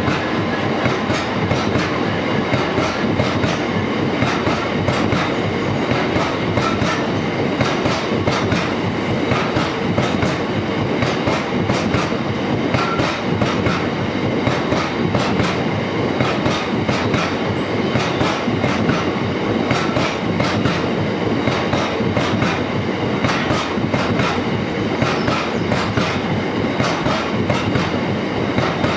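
Freight train hauled by a Class 66 diesel locomotive passing at speed, its wagon wheels clattering in a fast, continuous clickety-clack over the rail joints.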